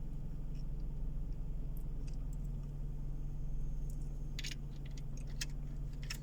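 Car driving, heard from inside the cabin: a steady low drone of engine and road noise, with small clicks and rattles from the interior, a short cluster about four seconds in.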